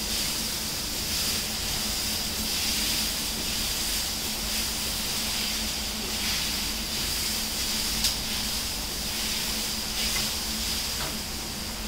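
Onion-tomato masala sizzling in hot oil in a pan while being stirred with a wooden spoon, over a steady low hum. One sharp knock of the spoon against the pan about eight seconds in.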